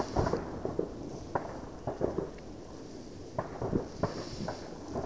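Distant fireworks heard from a kilometre or two away: an irregular series of bangs and pops with a low rumble between them.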